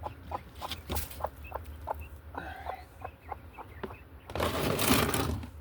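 Pet hens clucking, a run of short clucks about three a second. About four seconds in comes a louder burst of noise lasting about a second.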